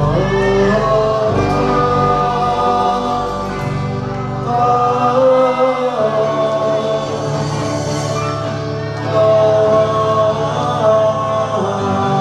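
Live band playing an oldies pop song with singing, the voices holding long notes over a steady bass line.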